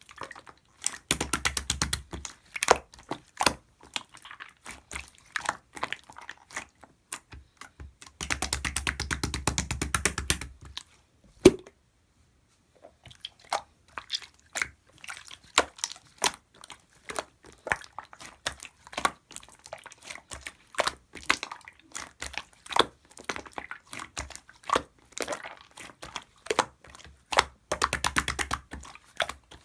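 Clear slime being squeezed and pressed by hand, giving a steady run of small clicks and pops. Three stretches of fast crackling stand out, and there is a sharp crack followed by a brief pause a little before the middle.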